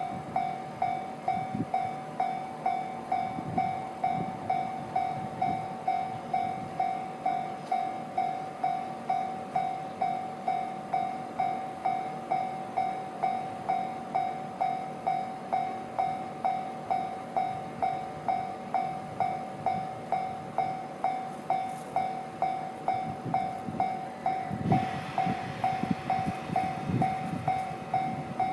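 Railway warning bell ringing steadily, a little under two strokes a second, each stroke sharp and then fading. A low train rumble runs beneath it and swells near the end.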